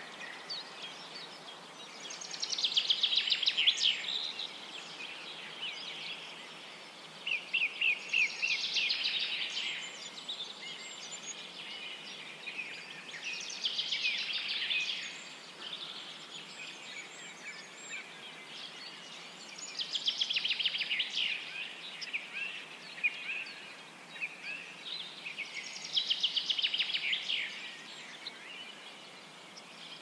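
Rainforest bird calls: a burst of rapid trilling repeated five times, about every six seconds, each burst lasting about two seconds, over a steady background hiss.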